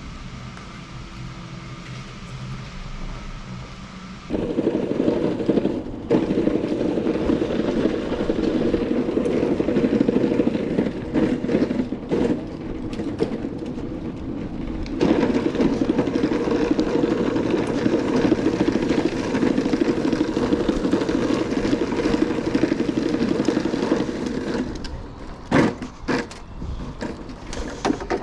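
Stiga Euro 50SH walk-behind lawn mower being pushed, its wheels rolling over the ground: a steady rolling noise that starts about four seconds in, dips briefly midway, and gives way to a few knocks near the end.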